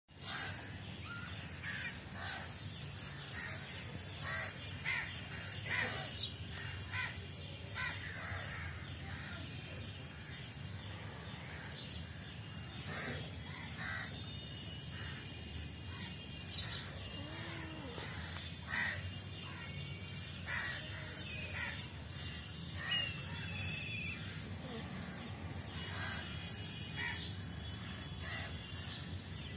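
Birds calling repeatedly outdoors, short sharp calls scattered throughout over a steady low background noise.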